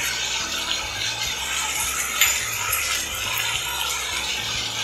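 Chopped tomatoes, garlic and green chillies sizzling steadily in hot oil in a frying pan as powdered spices are sprinkled in, with one light tick about two seconds in.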